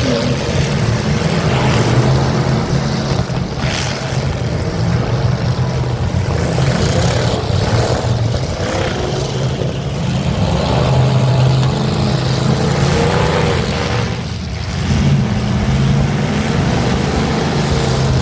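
Demolition derby cars' engines running hard and revving, with pitch rising and falling as the drivers accelerate and back off.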